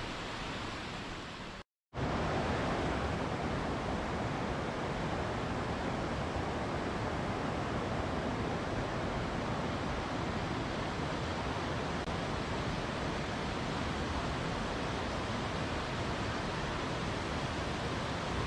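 Steady rush of a waterfall's falling water. It cuts out briefly a little under two seconds in, then comes back slightly louder.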